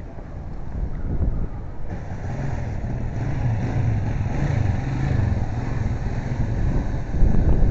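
Riding through city traffic: low wind rumble on the microphone and road and vehicle noise, getting louder near the end.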